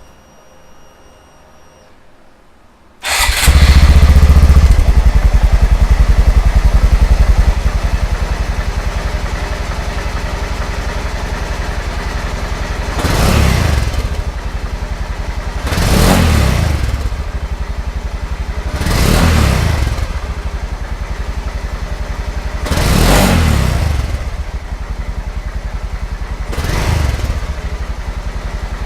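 Honda Grom's 125 cc single-cylinder engine starting about three seconds in, running at a fast idle for a few seconds, then settling to a steady idle. It is blipped five times with short revs at a few seconds' spacing.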